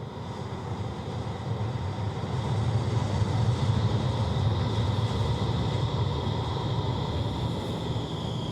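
NF4 low-floor tram running on its rails with a low rumble that grows louder over the first few seconds and then holds. A thin high whine from its drive sits above the rumble and starts to fall slowly in pitch near the end.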